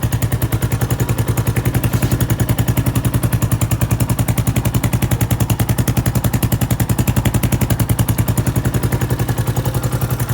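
Yamaha XT250X air-cooled single-cylinder four-stroke engine idling with a steady, even beat, freshly running after a top-end overhaul with a milled head and high-lift cam.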